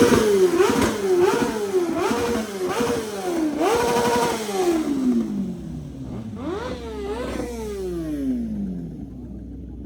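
A car engine revved hard again and again, each rev climbing to the same top pitch, holding briefly and dropping, about seven in quick succession. Two more revs follow after a pause, then the engine falls back and fades.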